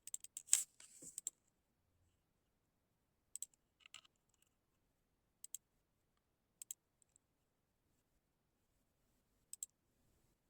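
Clicks from a computer mouse and keyboard: a quick flurry in the first second or so, then single sharp clicks every second or two.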